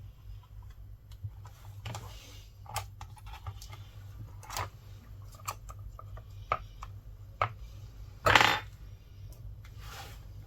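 Small metal repair tools and parts clicking and tapping on a work surface: a string of light, sharp clicks, with one louder, longer clatter about eight seconds in.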